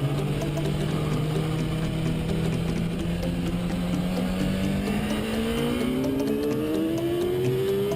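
A motor vehicle engine, most likely a superbike's, accelerating hard: its pitch climbs smoothly and steadily as the revs rise.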